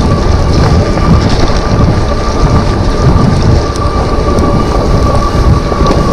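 Wind buffeting the microphone, with rain and tyre noise, while riding an e-bike in the rain: a loud rumbling hiss. A steady high whine runs through it.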